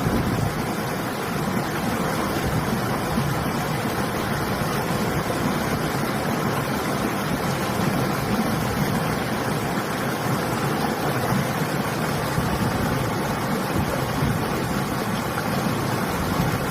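Steady rushing of a flowing river, with wind mixed in, as an even hiss that does not change.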